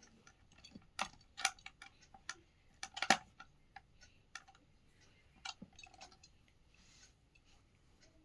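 Irregular sharp clicks and light knocks of small plastic parts and tools being handled, the loudest about a second in and again about three seconds in.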